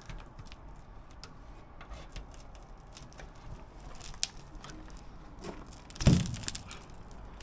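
Scattered light clicks and handling noise from hands working the rubber window seal and glass out of an excavator cab frame, with one louder thump about six seconds in.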